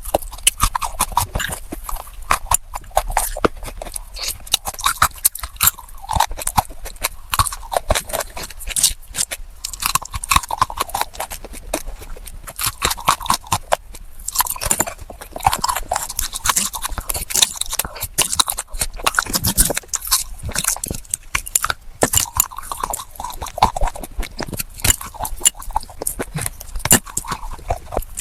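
Close-miked chewing of baked red clay: a dense, steady run of sharp crackling crunches.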